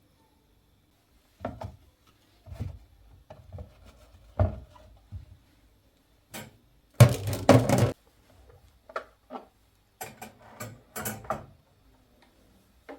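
Household objects being handled: scattered knocks and clicks, with a louder rattling burst of about a second near the middle and a quick run of clicks a few seconds later.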